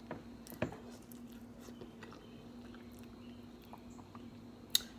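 Faint mouth sounds of a person eating: quiet chewing with a few soft smacks and clicks, the sharpest about half a second in and another near the end, over a faint steady hum.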